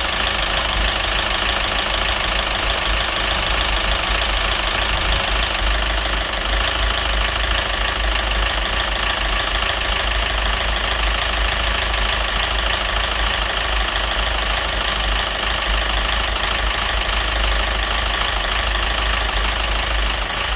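Citroën DS3 1.6 petrol engine idling steadily with a heavy knocking rattle. The engine has been run without oil, and the mechanic takes the rattle for terminal damage to the head or crankshaft that an oil change has not cured.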